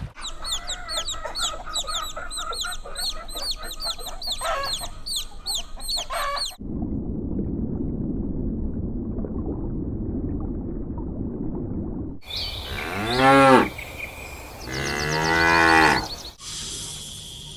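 A cow mooing twice: a short loud call, then a longer one. Before the moos come several seconds of rapid, high, falling peeping calls, and then a stretch of low rumbling background noise.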